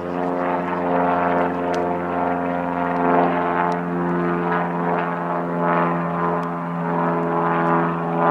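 Small propeller airplane engine droning steadily, a hum of many even tones that holds its pitch, with a few swells of rushing noise.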